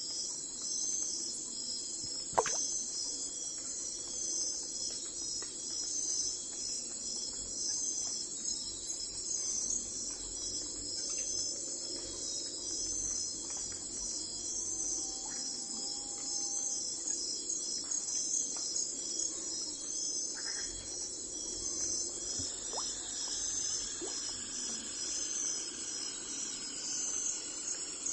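Insects chirring steadily in a high, pulsing band, with a single sharp click about two seconds in over a low background hum.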